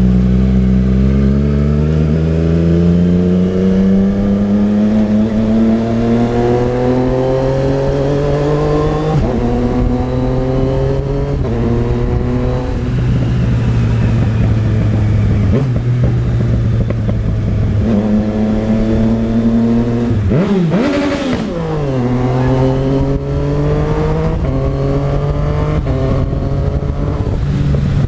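Yamaha MT-09 Tracer's three-cylinder engine pulling hard under acceleration, its pitch climbing and then dropping back at each of several upshifts. About two thirds of the way in the revs fall away and climb again as the bike slows and pulls away once more.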